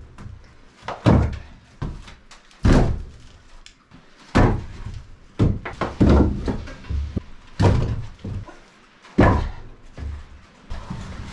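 Split firewood being tossed onto a stack, each piece landing with a sharp knock and a deep thud, about seven times, a second or two apart.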